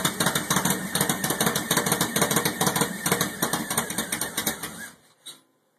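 Ford 5.4-litre DOHC V8 from a Lincoln Navigator, swapped into a Mustang, running steadily with a pulsing firing rhythm; the sound cuts off suddenly near the end.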